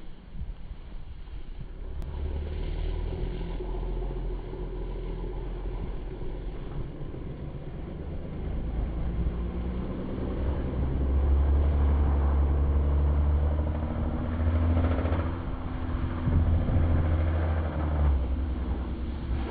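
Infiniti sedan's engine with an aftermarket Stillen exhaust revving under hard throttle while the car drifts with its wheels spinning in snow. It grows louder about halfway through and surges again near the end.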